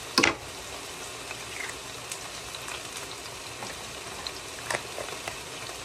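Chicken sizzling in a frying pan: a steady hiss with scattered small pops and crackles, after one loud sharp pop just after the start.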